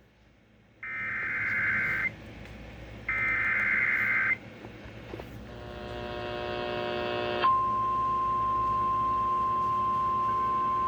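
Emergency Alert System broadcast signals: two screeching digital header bursts, each about a second long. A buzzy, many-pitched tone follows for about two seconds, and then, from about seven and a half seconds in, a steady single high alert tone begins.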